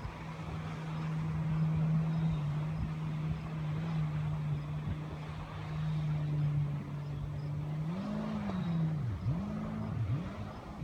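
A motor running at a steady pitch, then its pitch rising briefly and swooping down and back up three times near the end, as its speed drops and recovers.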